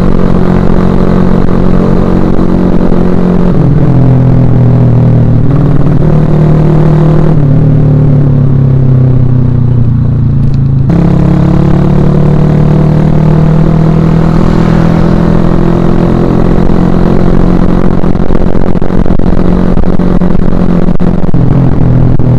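Suzuki Shogun Axelo R's single-cylinder four-stroke engine running under way, heard close on the bike. Its note changes pitch in steps in the first seven seconds and eases off for a few seconds around the middle. It comes back on sharply, then slowly falls in pitch and rises again near the end.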